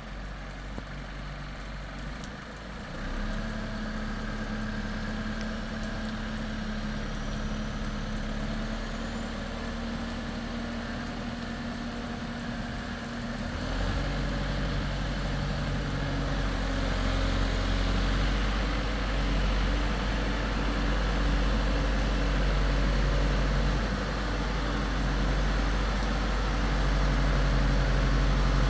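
A motor engine runs steadily. Its pitch and level step up about three seconds in and again about halfway through.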